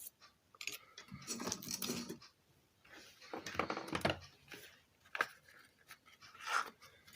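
Small metal parts and tools handled on a workbench: irregular scraping and rubbing with a few sharp clinks.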